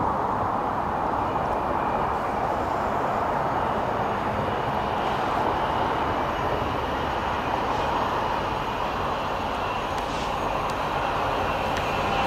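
A train running past with a steady rolling noise.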